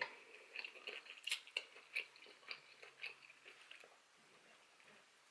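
A person chewing food, a string of soft wet mouth clicks and smacks that die away about four seconds in.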